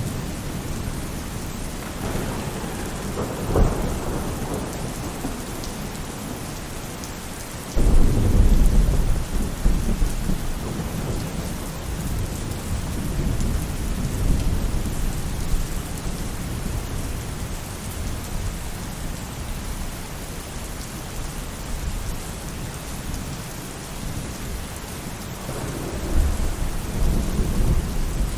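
Steady rain falling on a roof, with thunder rolling through it: a rumble a few seconds in, a sudden loud clap about eight seconds in that rumbles away over several seconds, and another rumble near the end.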